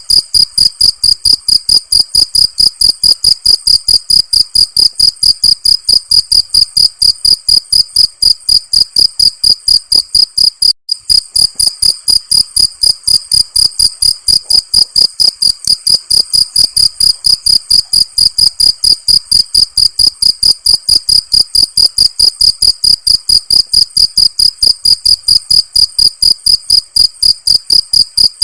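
Cricket chirping steadily: a loud, high-pitched chirp repeated evenly several times a second, with one brief break about eleven seconds in.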